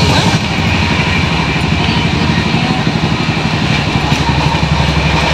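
Steady rumble of a moving passenger train, heard inside the coach.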